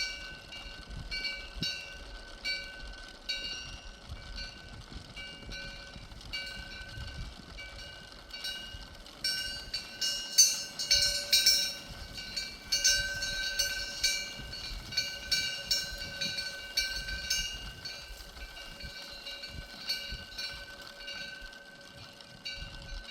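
Moktak, the hollow wooden temple block, being knocked in a quick series of sharp wooden knocks, loudest and densest in the middle, over steady ringing tones.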